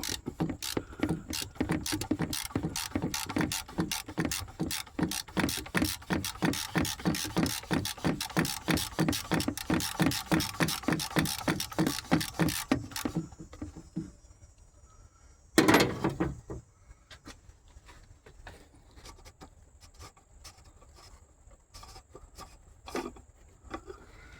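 Hand ratchet with a 24 mm socket clicking rapidly and evenly, about four clicks a second, as it backs off the oil filter cap of a Ram 1500's 3.6 Pentastar V6. The clicking stops about 13 seconds in. A short loud thump comes a couple of seconds later, then a few scattered faint clicks.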